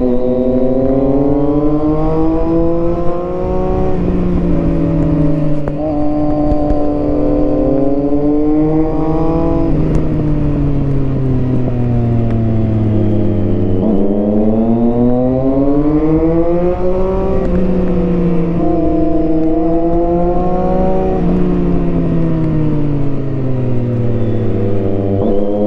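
Triumph Street Triple 675R's inline three-cylinder engine through an HP Corse Hydroform exhaust, under way: the revs climb, drop sharply with gear changes and slide down as the bike slows, then build again, over and over.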